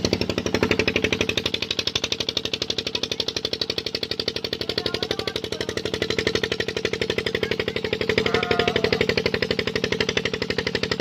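Tubewell pump engine running steadily with a rapid, even pulse, working properly.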